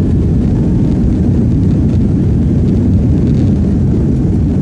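Airliner on its landing approach: a loud, steady low rumble of engines and rushing air.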